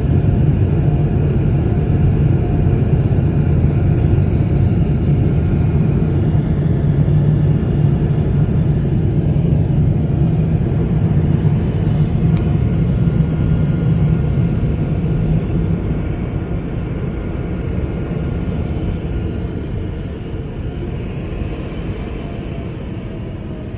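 Automatic car wash air dryer blowers running with a steady, loud rumble. The sound fades gradually over the last several seconds as the car moves away from them.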